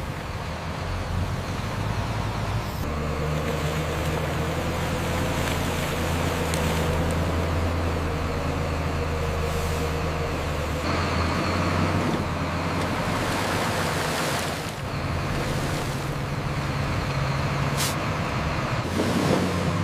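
Heavy truck engine running steadily, its pitch shifting a few times, with a hiss of noise over it.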